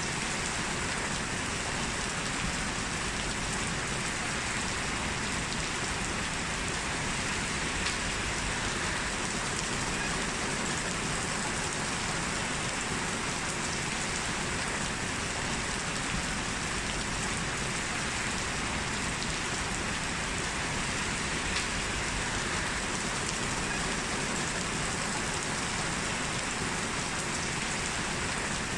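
Heavy rain falling steadily, a constant even hiss with a few faint drop ticks.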